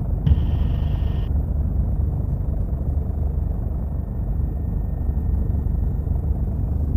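Steady low rumble of a helicopter's rotor and engine, heard from inside the cabin. A fainter higher hiss cuts off about a second in.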